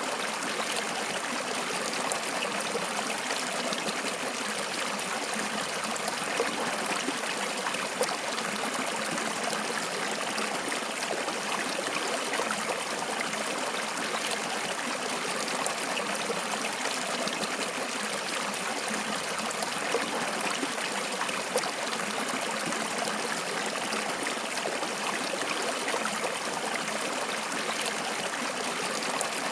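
Water flowing and trickling in a small stream, a steady babble with small splashes throughout.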